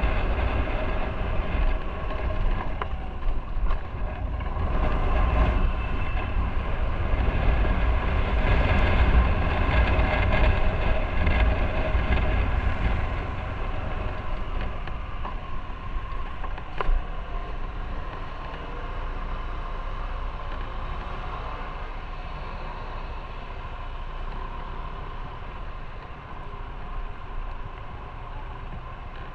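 Motorcycle engine running while riding, with wind rumbling on the microphone; the wind rumble and overall loudness die down through the second half. A single sharp click about 17 seconds in.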